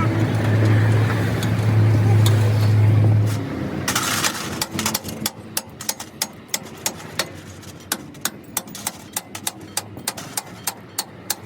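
A steady low machine hum that cuts off about three and a half seconds in, followed by a quick, even run of sharp metal taps, about three a second, from a hammer striking metal.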